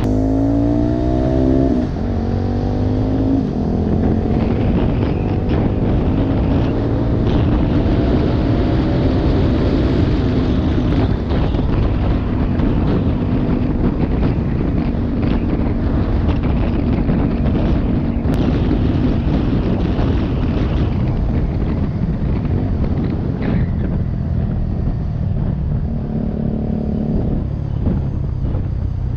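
Motorcycle engine running while riding, its note climbing as it accelerates through the first two seconds, then holding a fairly steady cruising pitch, with wind rumble on the microphone underneath.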